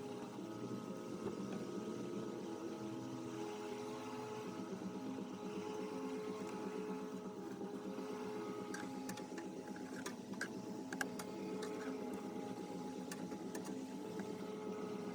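A small motor humming steadily, with a handful of light clicks about two-thirds of the way through.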